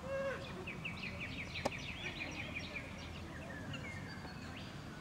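A bird calling outdoors: a fast run of evenly repeated high chirps lasting about two seconds, over a steady background of outdoor noise. There is one sharp click partway through.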